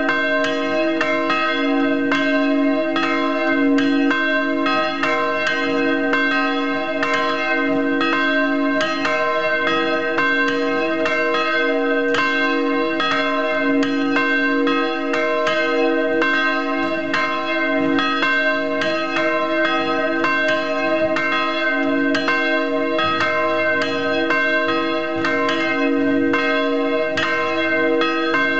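Church bells hung on an open frame and swung by linear motor drives, pealing together: a steady, dense run of overlapping clapper strikes with long ringing tones.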